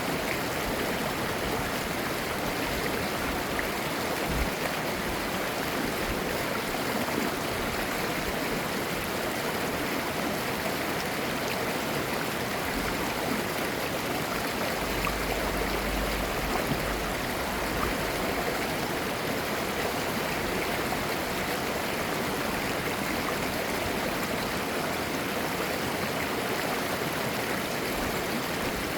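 Clear mountain stream flowing over rocks: a steady rushing and babbling of water.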